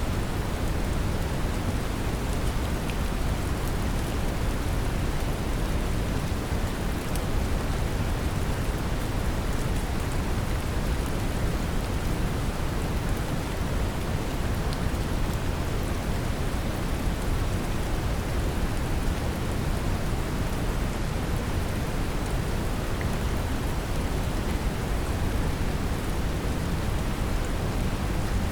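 Steady brown noise, deep and even with most of its weight low down, mixed with a constant rain hiss and a few faint raindrop ticks.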